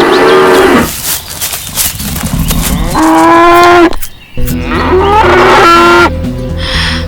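Cattle mooing: several long calls one after another.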